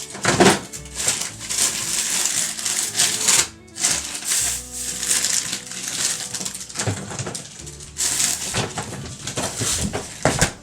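A cat chewing and tearing at a treat: irregular crunching that stops briefly a few seconds in, over soft background music.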